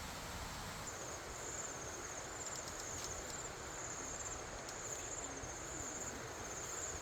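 An insect chirping in high, even pulses, about two a second, starting about a second in, over a steady background hiss.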